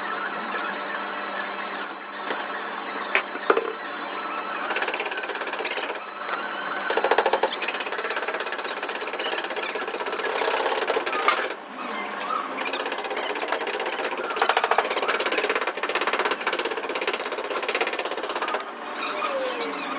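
A power tool hammering rapidly and continuously, louder in a few stretches, with a few sharp knocks.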